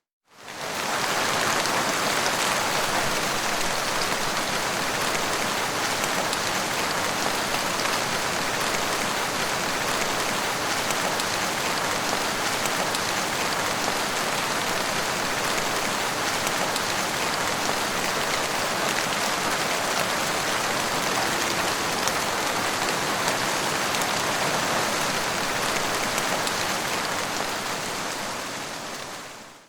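Steady rain: an even, dense hiss of falling drops with no thunder. It fades in at the start and fades out at the very end.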